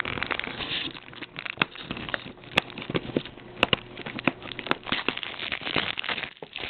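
Plastic wrapping on a Blu-ray case being torn open and handled, crinkling and crackling with many irregular sharp clicks.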